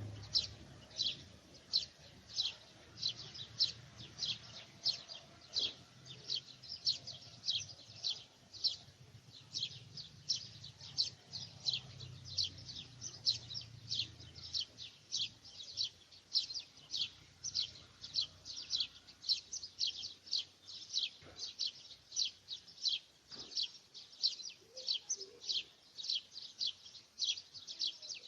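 A bird calling: short, high chirps repeated steadily, about two to three a second.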